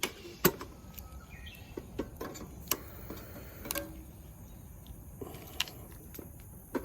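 Scattered small clicks and knocks at irregular moments, the sharpest about half a second in, over a faint steady high drone of insects.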